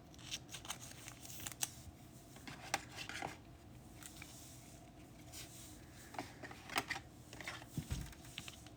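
Trading cards being handled on a table: faint, soft rustles with scattered light clicks and taps as cards are slid and moved about.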